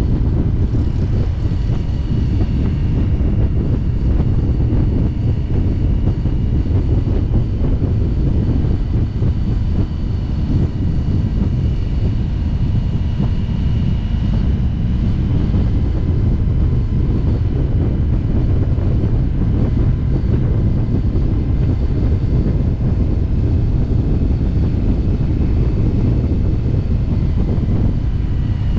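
Motorcycle running at a steady cruising speed, its engine rumble mixed with heavy wind noise on the microphone.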